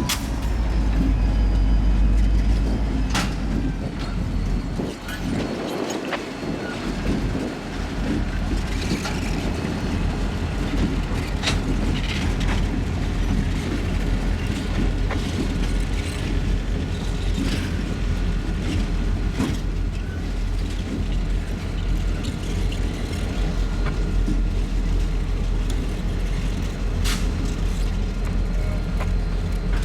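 Diesel locomotives of a slow-moving freight running with a steady low rumble, with scattered clanks and knocks from the train.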